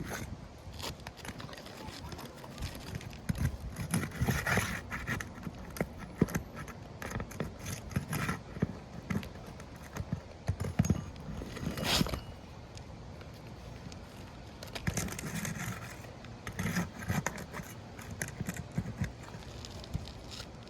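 Roof shingles being worked loose and handled by hand during a repair test: irregular scraping, crackling and knocking, with one sharp knock about halfway through.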